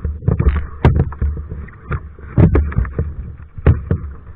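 Kayak paddling: the paddle blades dip and splash in the water, with irregular sharp knocks, over a low rumble of wind on the microphone.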